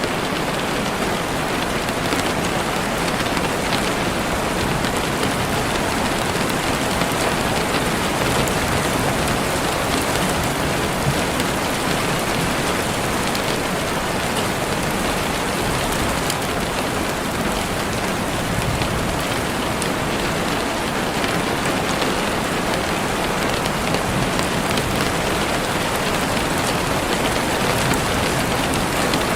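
Heavy rain falling steadily on leaves and the forest floor, a dense even hiss with scattered drop patter.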